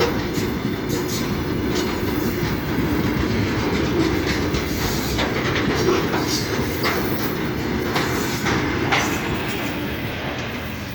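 A train running on the rails: a steady rumble with irregular sharp clicks of the wheels over rail joints, easing off a little near the end.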